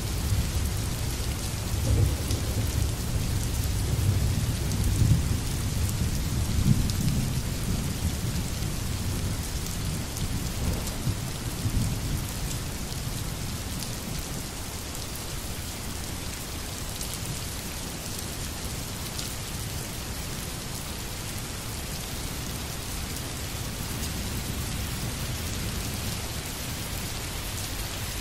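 Steady rain, with low rumbles of thunder during roughly the first twelve seconds.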